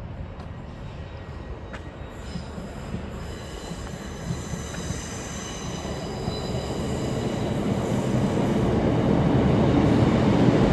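Class 156 diesel multiple unit pulling into a platform, its wheels and brakes giving a high, steady multi-tone squeal from about two seconds in over the rumble of the train, which grows louder toward the end.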